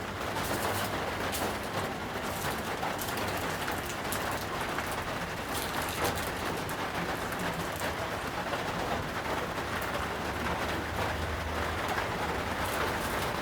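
Steady, even hiss of outdoor noise, rain-like, with faint ticks scattered through it.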